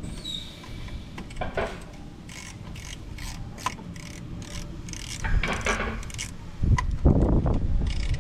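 Hand-tool work on the car: a run of quick ratcheting or rasping strokes, about four a second, followed by longer scrapes and a couple of louder knocks near the end.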